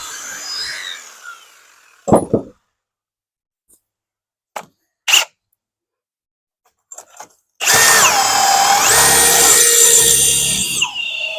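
A few short knocks of handling, then a power drill starts and bores into the wood, its motor pitch sagging and recovering as the bit loads up, easing off briefly near the end before biting again.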